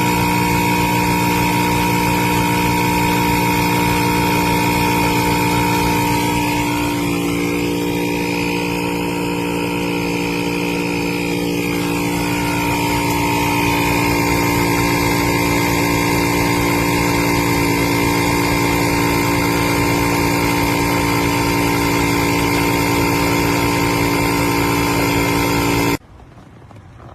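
Inzeetor 12V portable tire inflator's piston compressor running with a steady, fast-pulsing buzz, cutting off suddenly near the end.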